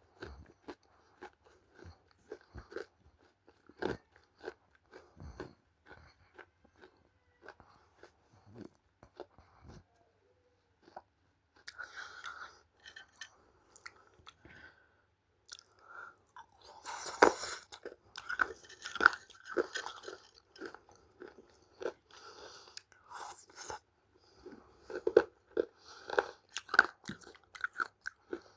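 Close-up biting and chewing of dry, crunchy clay. For the first ten seconds there are sharp single snaps every second or so; from about twelve seconds in, the crunching turns dense and steady, loudest a little past the middle.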